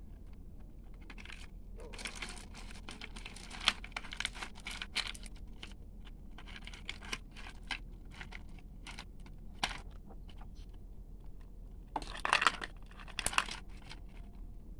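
Toy vehicles and small crushed stones being handled: irregular clicking, scraping and rattling that comes in a few dense clusters with quieter gaps between.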